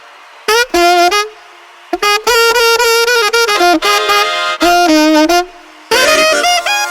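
Music: a solo wind instrument, saxophone-like, plays short phrases of held notes with brief gaps, then fuller band accompaniment comes in about six seconds in, leading into a swing beat.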